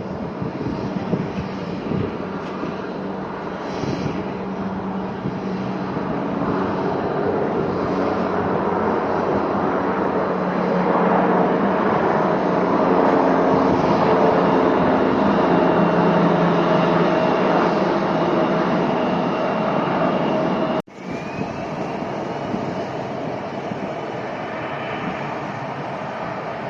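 Airliner engines running near an airport, the noise swelling to its loudest around the middle and easing off, with a steady high whine over it near the end. There is a sudden break for an instant just before the end.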